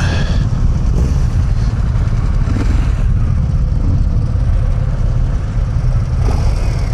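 Several motorcycle engines idling together, a steady low rumble, with the rider's own Harley-Davidson Low Rider ST and its 117 cubic inch V-twin among them.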